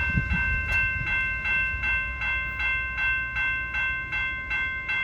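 Railroad grade-crossing bell ringing steadily, about three strikes a second, over the low rumble of a passing passenger train.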